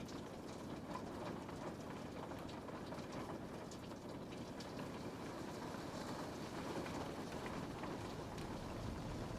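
Steady rain on a window pane, a dense even patter with scattered small drop taps.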